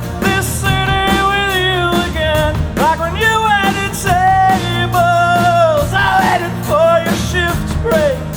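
Live punk rock band playing with a lead vocalist singing held, bending lines over electric guitars, bass and drums.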